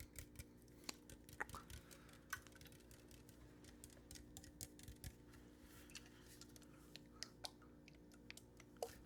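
Soft, irregular ASMR taps and clicks close to the microphone, a scattered handful every second or so, over a faint steady hum.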